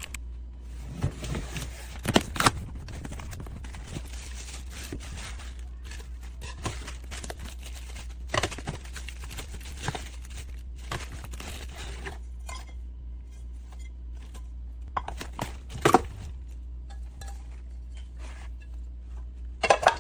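Scattered knocks and clinks of cookware (pots, pans and lids) being handled and set down, a few of them sharp and loud, over a steady low hum.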